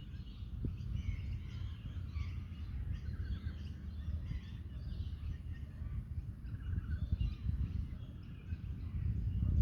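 Wind buffeting the microphone in a low, uneven rumble, with many small birds chirping and twittering in the background.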